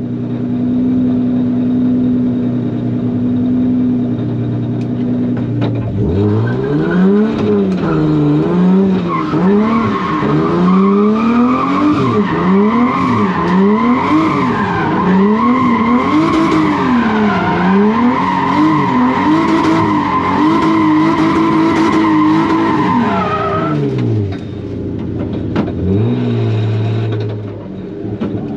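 Turbocharged BMW E36's M50 straight-six heard from inside the cabin. It idles for about six seconds, then is revved up and down over and over through a drift with the tyres squealing. It drops back to a low run about two-thirds of the way through, with a short rev near the end.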